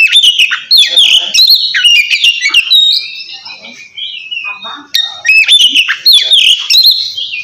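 Oriental magpie-robin (kacer) singing its loud, clear 'ngeplong' song: a rapid run of varied whistles and notes that swoop up and down, with a quieter stretch about three to five seconds in. It is the challenging song by which the bird calls out a rival.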